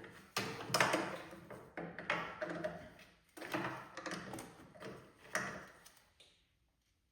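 Wrench working the oil drain plug on a Briggs and Stratton mower engine snug. It makes a series of metal taps and scrapes, about one every second.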